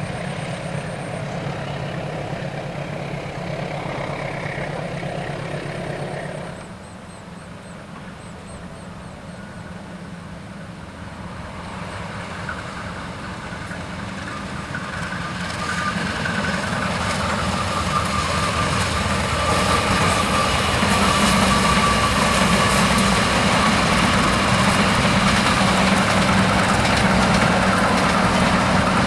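A steady motor hum for the first six or so seconds, then cuts off suddenly. A passenger train then approaches, growing steadily louder, and runs past at a loud, steady level.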